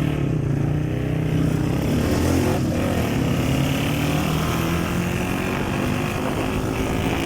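Motorcycle engine running steadily while under way, its pitch holding fairly even.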